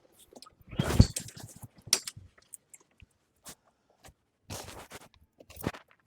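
Honda HRN216 lawn mower's recoil starter pulled, the engine cranking without firing: a few short rasping pulls, the strongest about a second in and another near five seconds, with no engine running between them. The engine fails to catch even on starting fluid.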